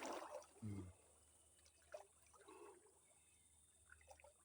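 Water splashing as a swimmer moves through it, then quiet with faint trickles and small splashes. A brief low vocal sound comes just under a second in.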